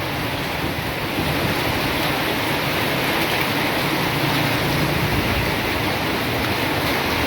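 Rain falling steadily, an even hiss, with wind rumbling on the microphone.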